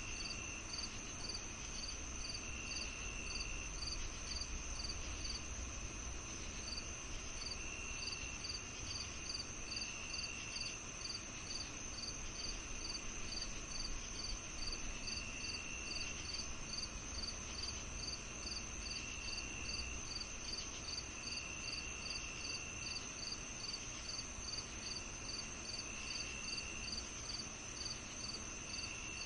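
A summer evening chorus of chirping insects: a steady high trill, a regular chirp about two times a second, and shorter lower trills every few seconds, over a faint low rumble.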